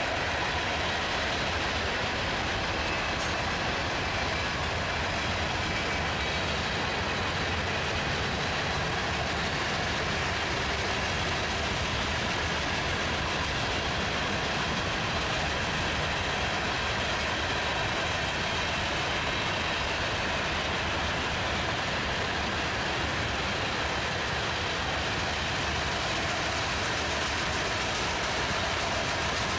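Freight train cars rolling past at speed: a steady, even noise of steel wheels on the rails with no pause or change.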